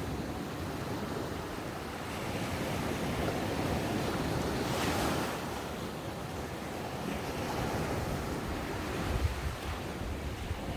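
Ocean waves breaking and washing up a sandy beach, a steady surf rush with one louder wave surging about five seconds in.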